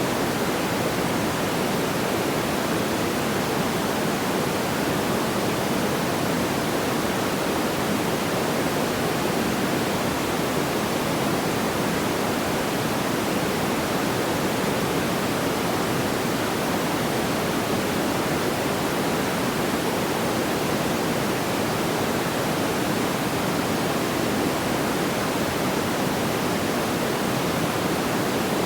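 Steady, even rushing noise like pink noise, fullest in the lower middle range and unchanging throughout, with no distinct crackles or pops.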